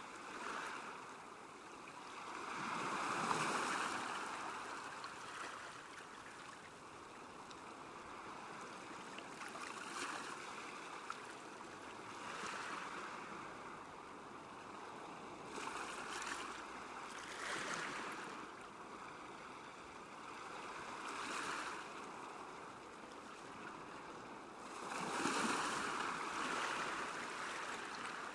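Small waves lapping at a lakeshore, a steady wash of water that swells every few seconds, loudest a few seconds in and again near the end.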